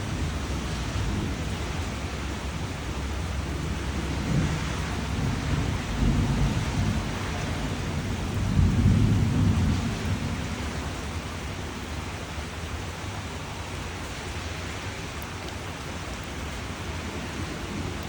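Steady rain with rumbles of thunder that swell a few times, loudest about halfway through, then die away, leaving the rain alone.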